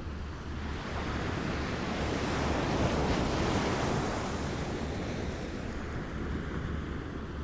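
Waves lapping: one wave's wash swells over a few seconds and then eases back, over a steady low rumble.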